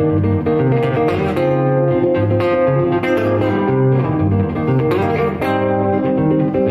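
Instrumental guitar music: plucked guitar notes over a moving line of low bass notes.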